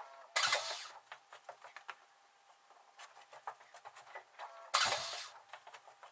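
Two short, loud hissing blasts about four and a half seconds apart, each starting suddenly and dying away within about half a second, among light clicks and taps of small parts being handled.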